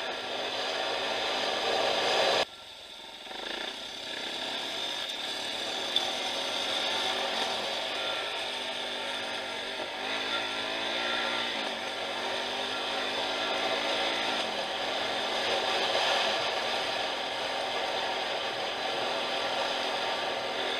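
Off-road motorcycle engine running as it rides along a gravel track, the revs rising and falling, mixed with wind noise on the microphone. The sound drops out abruptly about two and a half seconds in, then builds back up.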